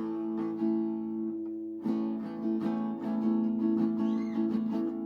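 Acoustic guitar strumming chords as an instrumental intro: a chord rings for about two seconds, then steady rhythmic strumming picks up.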